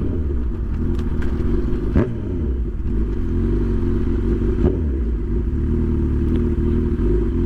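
Honda CB1000 inline-four engine running at a steady cruise while riding, its pitch wavering only slightly, over a heavy low rumble of wind on the microphone.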